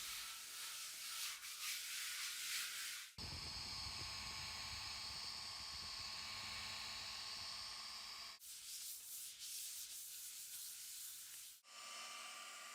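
Sanding of restoration parts, a dry hiss of strokes, alternating in abrupt cuts with a small power tool running at a steady whine.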